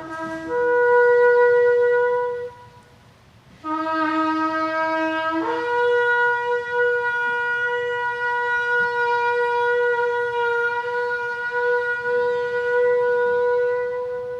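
Shofar blown in two long blasts, each starting on a low note and jumping up to a higher one. The first ends about two seconds in. After a short pause the second is held for about nine seconds.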